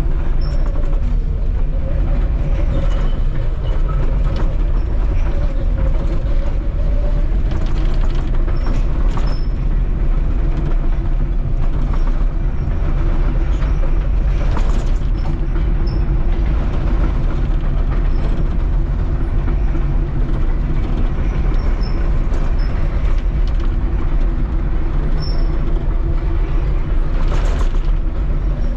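Volvo 235EL excavator's diesel engine running steadily with a low drone, with a few knocks and clanks from the working attachment.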